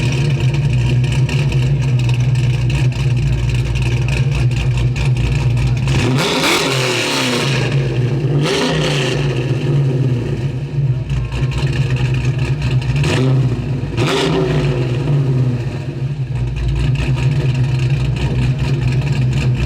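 Chevrolet 350 small-block V8 with MSD ignition idling with a steady, deep beat, its throttle blipped into short revs a few times: around a third of the way in, again just after, and twice more past halfway.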